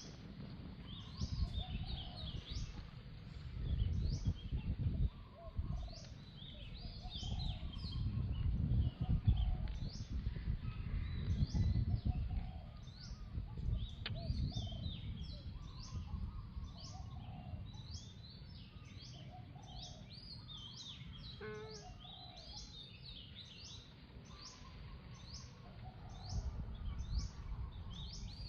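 Birds chirping, with short high notes that drop in pitch, repeated about once or twice a second, over a low rumbling background noise that is loudest in the first half.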